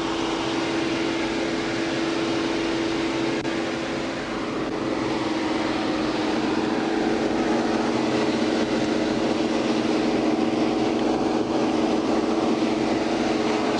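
Steady running noise of a vehicle with a constant low hum, no sudden sounds.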